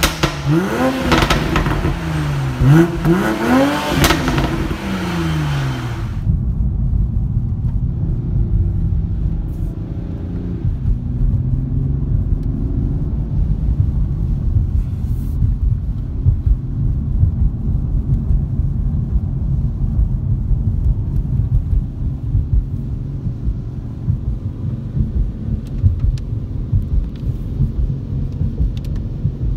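2019 Toyota GR Supra's turbocharged straight-six blipped several times through its exhaust, rising and falling revs echoing in an underground car park. About six seconds in it gives way to a steady low rumble of engine and road noise heard from inside the cabin while driving.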